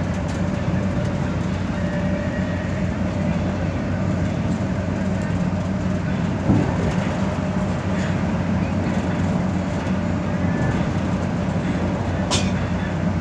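Inside an express bus cruising on the expressway: a steady low engine and road drone with tyre noise. There is a single bump about halfway through and a short sharp click near the end.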